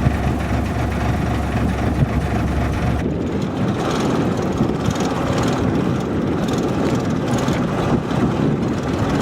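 Fishing boat's engine running steadily under wind and water noise. About three seconds in, the deep low hum drops away abruptly and a rougher, noisier rush takes over.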